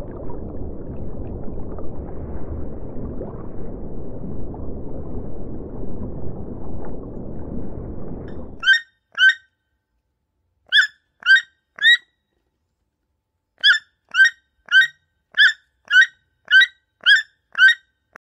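A low, steady rumbling noise that cuts off suddenly about halfway through, followed by a bird giving short, sharp, high calls: two, then three, then a run of nine at about two a second.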